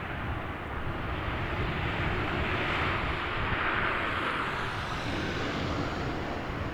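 Jet airliner engines running as the aircraft passes at an airport, a steady rumble and roar that swells in the middle with a faint whine falling in pitch.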